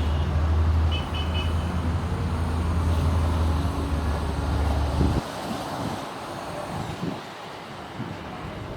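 A vehicle engine running with a steady low rumble that cuts off abruptly about five seconds in, leaving a quieter rushing noise.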